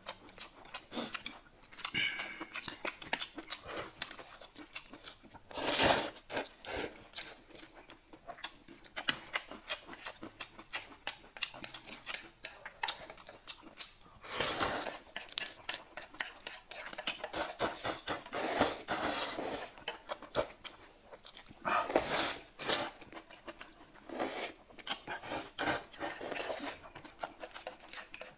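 Close-up eating sounds of two people eating noodles: wet chewing and smacking with quick clicks, and several noisy slurps of about a second each as the noodles are sucked in. Chopsticks tap against the plates.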